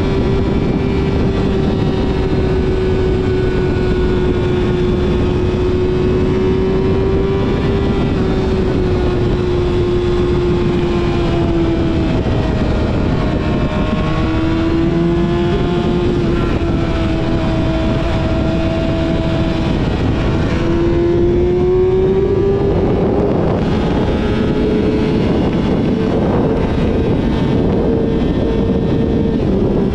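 Yamaha YZF-R6's inline-four engine through a full aftermarket exhaust system, held at steady revs while riding, over rushing wind and road noise. Its pitch sags and recovers twice midway, then climbs and holds higher for the rest of the ride.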